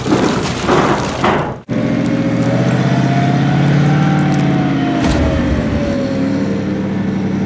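Truck engine running and revving, its pitch rising and then falling again, after a second and a half of rough noisy bursts that cut off abruptly.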